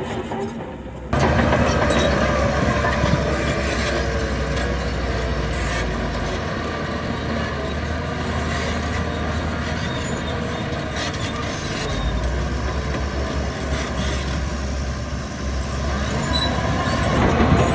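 Heavy earthmoving machinery running steadily under load, with a low rumble; the sound comes in suddenly about a second in.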